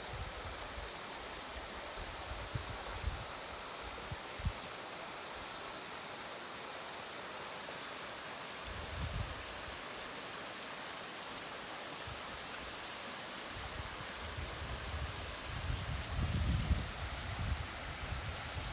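Steady even rushing hiss, with low wind buffeting on the microphone that comes and goes, strongest in the last few seconds.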